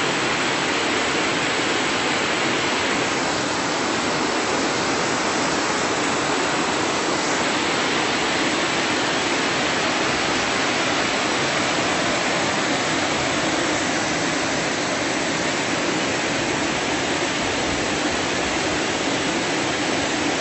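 Creek water rushing steadily at an even level.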